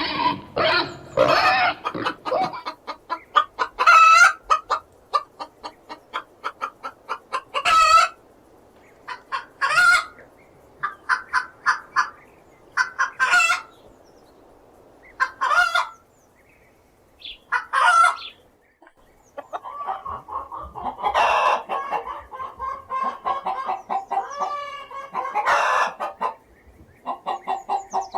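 Domestic hens clucking in quick runs, broken every few seconds by loud, high squawking cackles. The audio is processed in 8D, so it pans around the listener.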